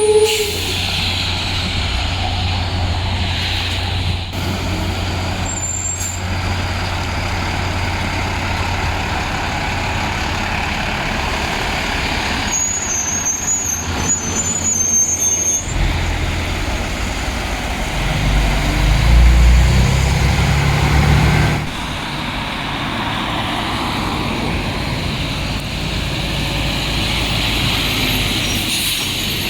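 Heavy diesel dump trucks running, a steady low engine rumble, with a high squeal about halfway through and one truck much louder for several seconds after it before dropping back.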